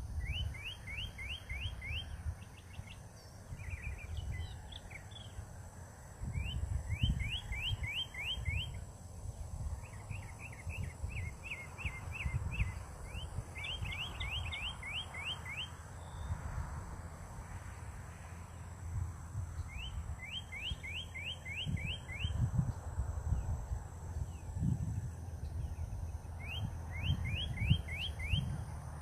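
A songbird singing, repeating a phrase of six to eight quick downslurred whistled notes every few seconds, over an uneven low rumble.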